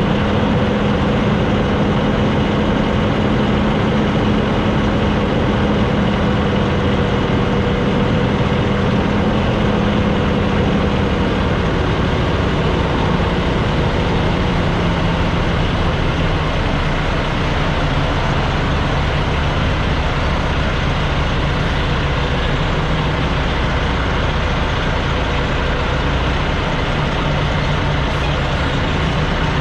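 Semi-truck diesel engine running with a steady drone over road noise; its pitch drops about halfway through, as the engine slows.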